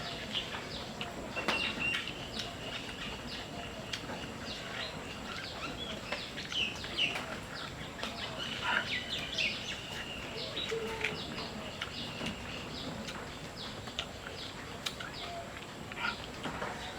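Small birds chirping: many short, high chirps repeating throughout, with a few longer held high notes.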